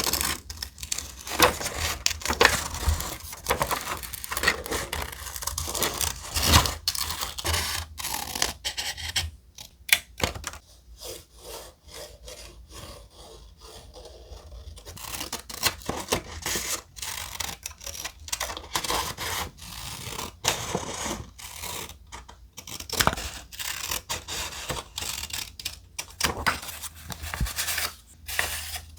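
Thick paper being handled: rubbing, scraping and rustling with many small sharp clicks and taps, quieter for a few seconds about ten seconds in.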